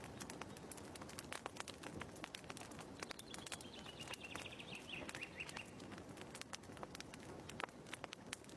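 Wood fire crackling in a fireplace, with frequent sharp snaps and pops over a steady hiss. A brief high trill that falls in pitch comes in about three seconds in.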